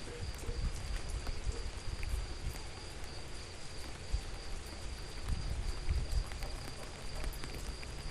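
Outdoor ambience: a steady high-pitched insect drone, uneven low rumbling and scattered small drips.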